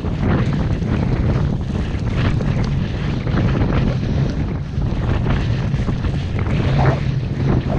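Strong mountain wind buffeting the microphone in a steady, loud rumble, with gusts swelling and easing.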